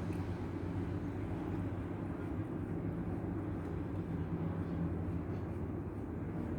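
A steady low mechanical hum and rumble that holds even throughout.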